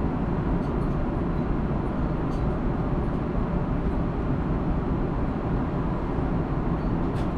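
Steady cabin noise of an Airbus A330-200 airliner in cruise: an unchanging low rush of engines and airflow, with one faint click near the end.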